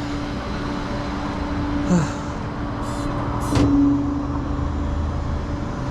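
Flatbed tow truck's engine idling steadily with the PTO engaged, with two short hisses around three and a half seconds in.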